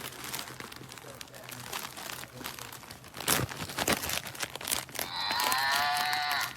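Rustling and crinkling handling noises, with a couple of knocks, then about five seconds in a single high-pitched electronic cow moo, about a second and a half long, from the soft toy cow's sound unit.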